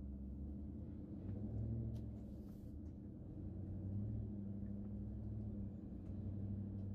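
Low, steady engine and road hum heard inside a car's cabin as it creeps forward in slow traffic, the deep tone swelling and easing a little.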